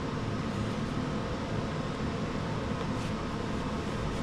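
Steady fan-like background hum with no clear pitch, with a couple of faint light rustles about half a second and three seconds in.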